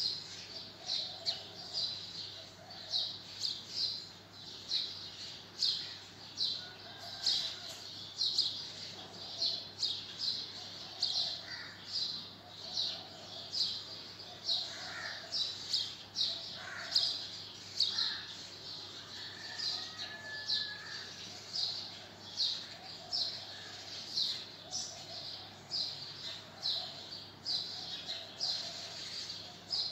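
Birds chirping steadily, short high chirps repeating about twice a second with softer lower calls in between, over a faint steady hum.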